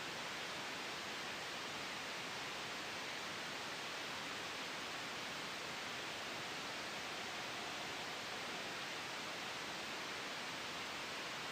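Steady white-noise hiss, even and unchanging, soft rather than harsh, with no gusts or sudden changes: a sleep noise track blended with a gentle wind sound.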